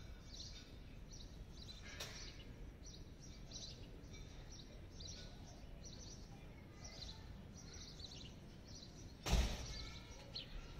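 Faint birds chirping over and over, about two short chirps a second, above a steady low background hiss. A sharp click comes about two seconds in, and a louder single thump near the end is the loudest sound.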